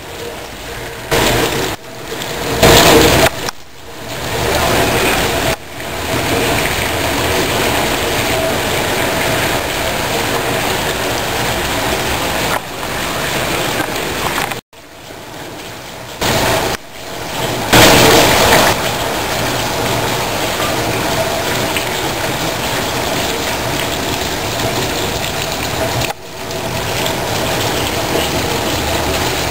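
Steady rushing outdoor noise, broken by several abrupt cuts, with louder surges about three seconds in and again a little past halfway.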